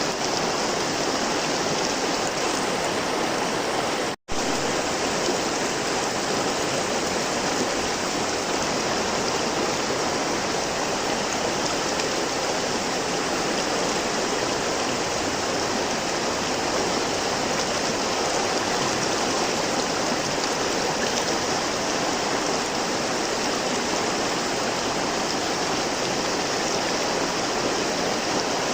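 Flowing river water rushing steadily in a dense, even hiss. The sound drops out to silence for an instant about four seconds in.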